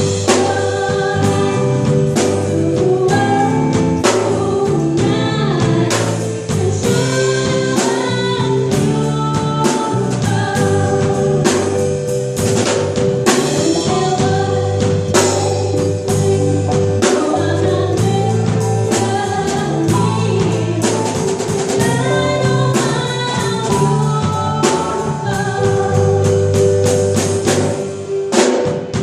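Live cover-band music: a singer's melody over a rhythm section, with drum kit hits keeping a steady beat.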